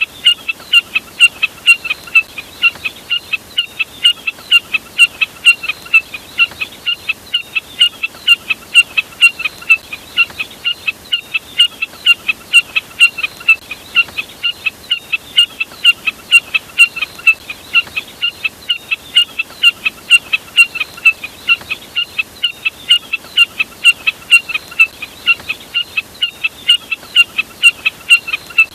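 Jack snipe calling: a long, unbroken run of short, sharp calls, about three a second, with an even rhythm throughout.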